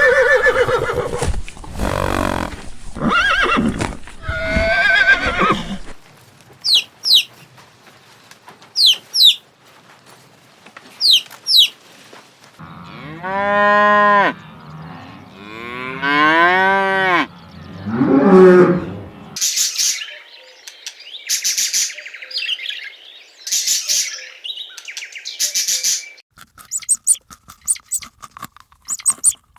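A string of farm animal calls. In the middle, a cow gives two long moos, each about a second and a half, with a shorter call after them. Before the moos come three pairs of short high chirps, and high-pitched chirping follows them.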